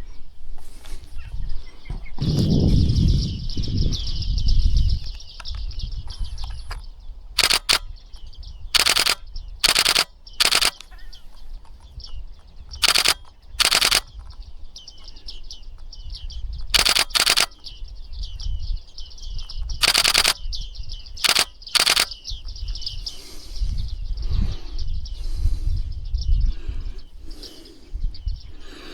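A flock of bearded reedlings keeps up a steady, high chatter of pinging contact calls. It is cut into a dozen times by the rapid burst clicking of a DSLR shutter firing in continuous mode. A low rumble of handling noise comes a few seconds in.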